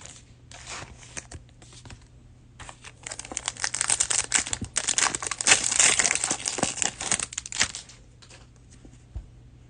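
Crinkly plastic wrapper of a 2020-21 Mosaic basketball cello pack being torn open and handled, crackling loudest in the middle stretch of a few seconds and tapering off near the end.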